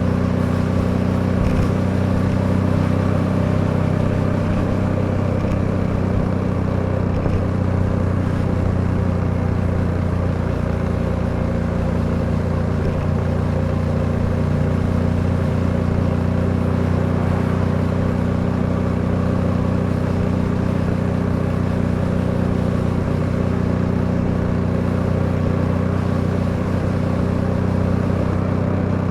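Suzuki V-Strom 800DE's parallel-twin engine running at a steady cruising speed on the move, its note holding nearly constant, over a rush of road and wind noise.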